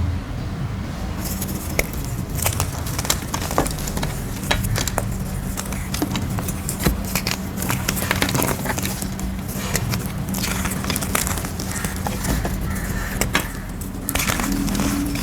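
Grey gym chalk shapes being crushed, crunching and crumbling with many small sharp crackles at irregular intervals, over a steady low hum.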